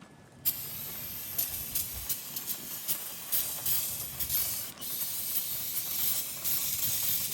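Aerosol can of brake cleaner spraying in a long, steady hiss onto a bare engine block. It starts about half a second in and breaks off briefly near the middle.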